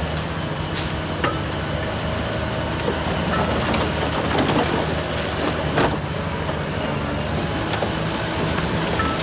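Heavy earthmoving machine's diesel engine running steadily, with a few sharp knocks over it, the strongest a little under a second in and just before six seconds in.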